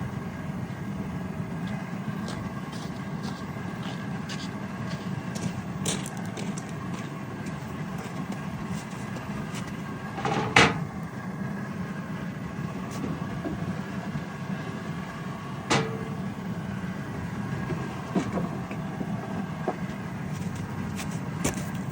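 Wax dipping tank at work at about 300 degrees: a steady low rumble with scattered small crackles, and two sharp knocks, one about ten seconds in and another about sixteen seconds in.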